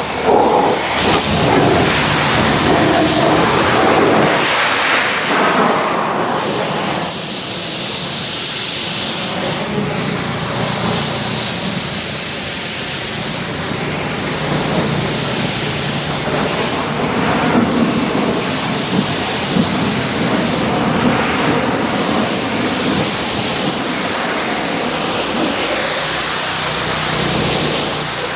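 Pressure washer spraying a jet of water against a truck's body: a steady loud hiss and splatter that swells and eases every few seconds as the spray moves, with a low steady hum underneath.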